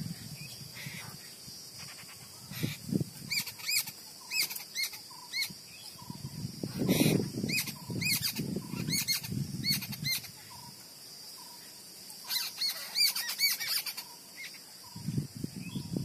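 Jungle babbler chick calling: groups of short, high, arching chirps repeated quickly, coming in three bouts. Low muffled rustling sounds in the middle.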